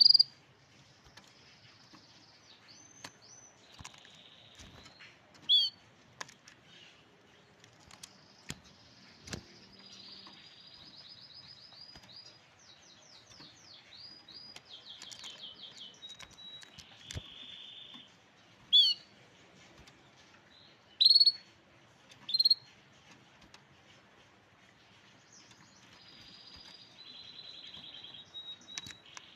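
Grey canary singing: long, high trilled phrases of rapidly repeated notes, broken by several short, loud, sharp chip notes.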